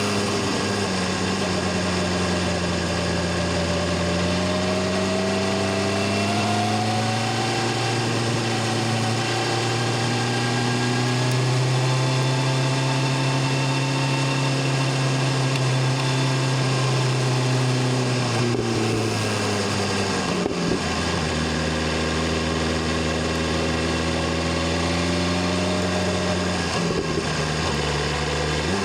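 BMW S1000RR inline-four sportbike engine and exhaust running at a steady cruise. The pitch climbs slowly, then drops about two-thirds of the way through and settles at a lower steady note.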